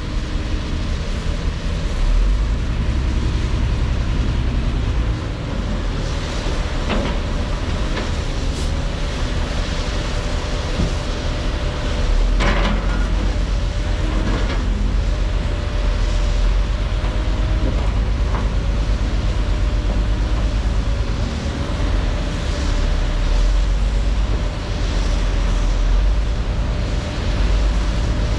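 Heavy diesel construction machinery running steadily, a deep engine rumble with a constant whine over it. There are occasional metallic clanks and knocks, the loudest about 12 seconds in.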